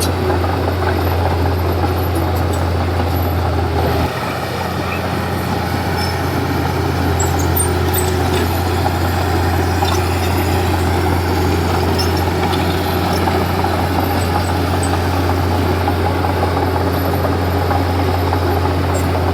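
Komatsu D31P bulldozer's diesel engine running steadily under work, with a deep steady hum; the sound dips slightly about four seconds in and then carries on evenly.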